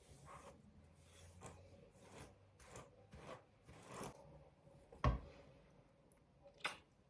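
Soft handling noises: a run of short rubs and light taps, a sharp thump about five seconds in, and a click near the end.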